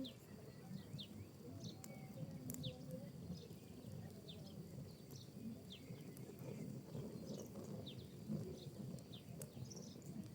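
Wood and pinecone fire burning in a fireplace: a low, restless rumble with scattered sharp crackles and pops. Short high chirps come many times over it.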